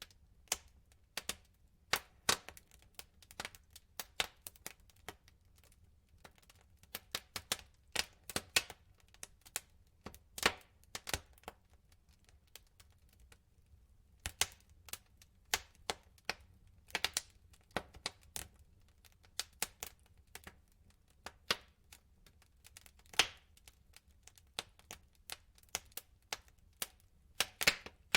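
Wood fire in a fireplace crackling, with irregular sharp pops and snaps from the burning logs over a faint low rumble.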